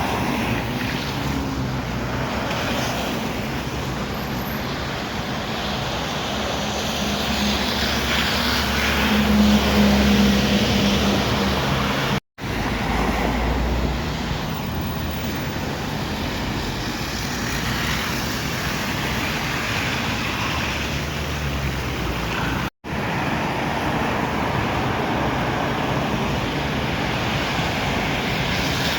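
Steady city traffic noise with the hum of vehicle engines, swelling briefly near the middle. It is broken twice by abrupt cuts.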